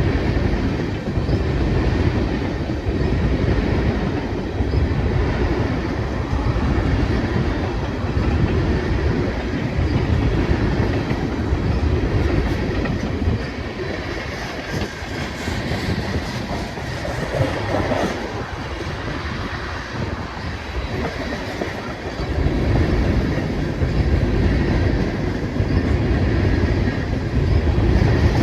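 Freight train cars rolling past, a steady rumble with wheels clacking over the rail joints; it eases off a little through the middle, then grows louder again.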